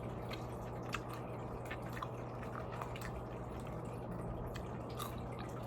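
Soft wet mouth clicks and smacks of someone eating, a few about a second apart, over a steady low hum.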